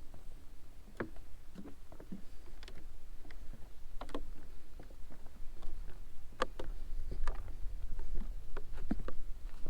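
Footsteps on a hiking trail: irregular light crunches and knocks, about one or two a second, over a low rumble that grows stronger about six seconds in.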